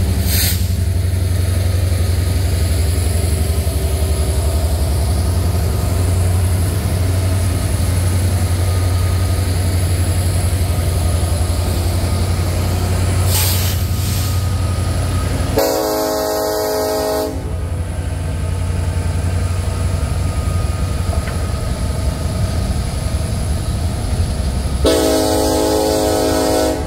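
BNSF diesel-electric locomotives hauling a coal train past with a steady low engine rumble as the coal hopper cars roll by. The locomotive horn sounds two long blasts, the first a little past halfway and the second near the end.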